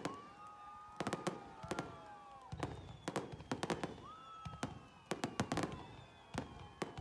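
Fireworks going off: a rapid series of sharp bangs and crackles from bursting shells, with drawn-out whistles that slowly fall in pitch, and deeper booms from about two and a half seconds in.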